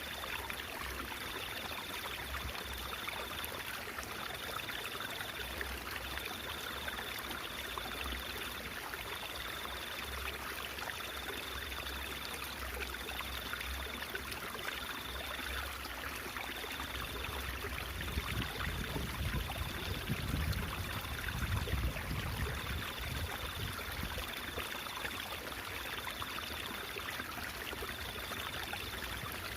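Stream water trickling and babbling steadily. A faint high-pitched tone pulses on and off about once a second, and a low rumble swells for a few seconds past the middle.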